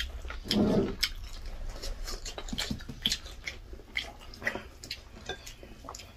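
Close-up eating sounds from people chewing chicken drumstick and rice with their hands: irregular wet mouth smacks and clicks throughout, with a short louder low sound about half a second in, over a steady low hum.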